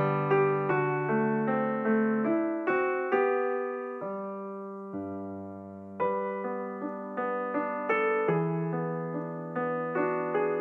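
Background piano music: a melody of struck notes that each fade out, over lower held notes, thinning to a few sustained notes for a couple of seconds in the middle before picking up again.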